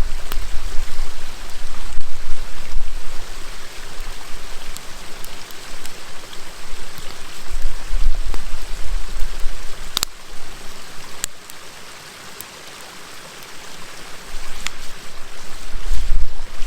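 River flowing steadily, with a campfire giving a few sharp crackles and pops. A low rumbling buffet comes and goes and is the loudest thing at times.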